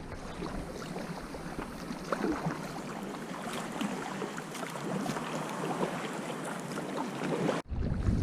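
Water splashing and lapping around a sea kayak being paddled, with scattered small drips and splashes from the paddle.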